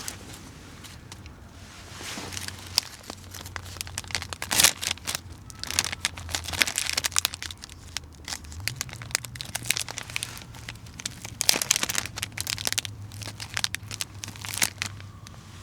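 Crinkling and rustling of plastic packaging or bags being handled, in irregular clusters with a steady low hum underneath.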